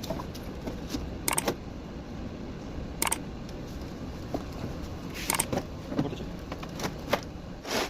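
Sharp clicks and clinks of tools and metal parts being handled, about six spread unevenly over several seconds, over a steady low background noise.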